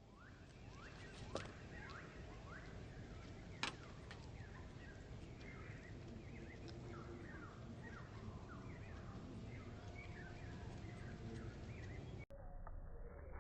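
Small birds chirping over and over in short, downward-sliding calls over a faint outdoor hiss, with two sharp clicks, one a little over a second in and one near four seconds. The sound breaks off abruptly about twelve seconds in.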